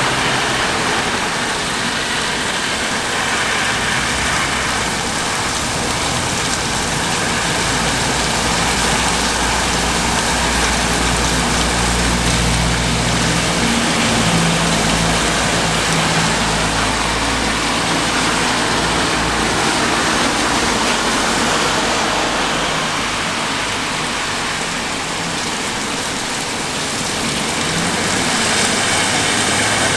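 Steady rain shower falling. A low rumble rises under it in the middle and fades.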